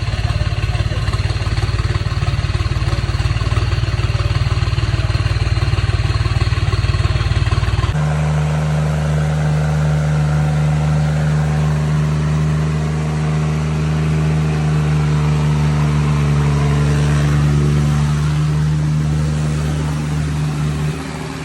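Diesel tractor engine running steadily under load in a tractor tug-of-war. About eight seconds in, the sound switches abruptly to a different steady, deeper engine note.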